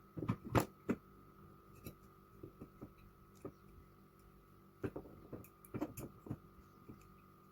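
Small irregular clicks and taps of hands working carburettor parts, pressing a new rubber accelerator-pump piece into its seat; a few taps in the first second and another run of them about five to six seconds in.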